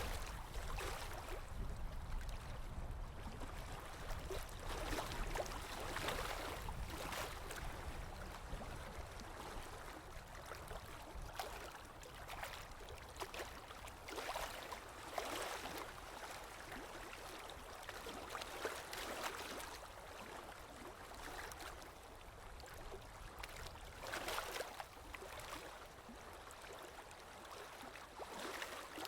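Sea waves washing in on a shore, the hiss of surf swelling in irregular surges every few seconds over a steady low rumble.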